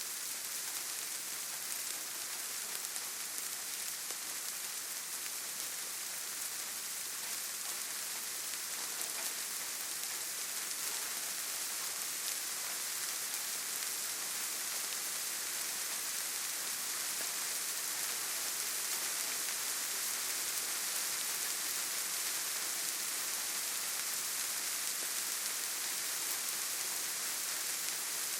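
Steady gentle rain falling on leaves and forest ground: an even hiss thick with fine drop patter.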